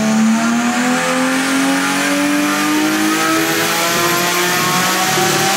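Twin-turbo Toyota 2JZ straight-six in a land-speed streamliner, pulling on a hub dyno, its revs climbing steadily and evenly through a long run.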